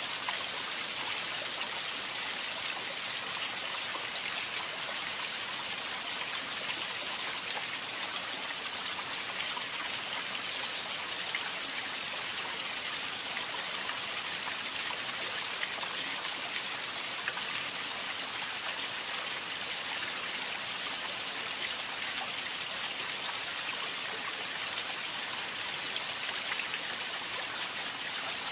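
Water making a steady, even hiss with a fine patter of drops in it, unchanging throughout.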